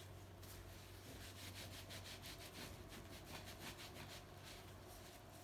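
Faint rhythmic rubbing strokes, about four a second, from scrubbing dirt off the engine by hand.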